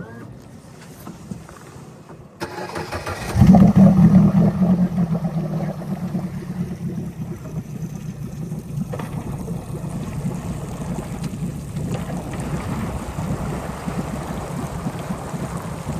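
Boat engine starting: it catches about three seconds in, revs up briefly, then settles into a steady run, with wind and water noise beneath it.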